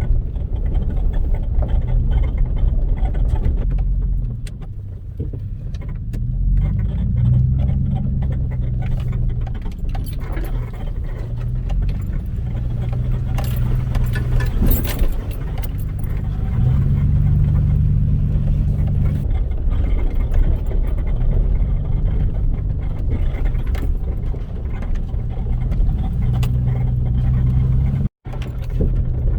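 A vehicle's engine and driving noise, the engine note shifting up and down as it drives, with light rattling.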